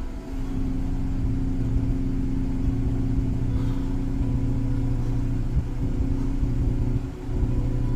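Car engine idling steadily while warming up from a cold start, heard from inside the cabin.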